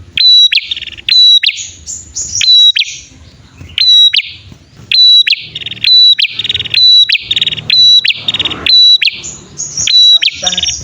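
Male and female prenjak singing a loud back-and-forth duet: sharp, high call notes about twice a second, with quick buzzy trills between them. This is a bird-lure recording of the kind used to draw wild prenjak in and get caged birds calling.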